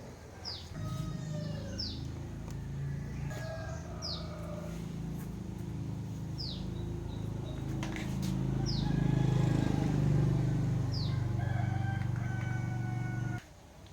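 Chickens and roosters calling, with short high falling chirps repeating every second or two. Under them runs a low steady hum that grows louder in the middle and cuts off suddenly near the end.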